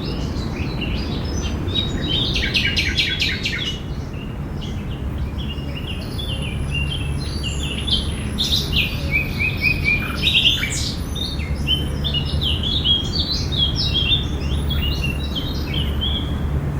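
Several songbirds chirping and singing together, with a quick rapid trill a few seconds in, over a steady low background rumble.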